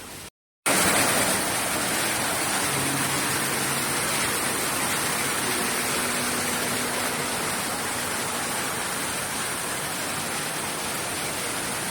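Steady rushing of falling water, as from a waterfall, cutting in abruptly about half a second in.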